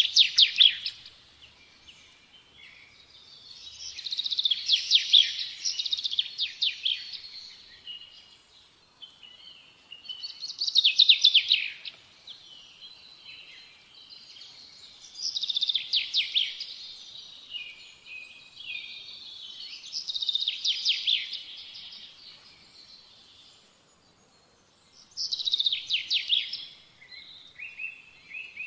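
A songbird singing: fast trilled phrases repeated about every five seconds, with quieter chirps in between.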